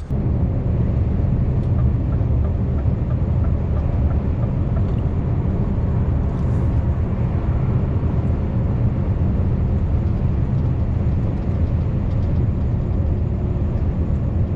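Scania V8 truck engine running steadily, a constant low drone.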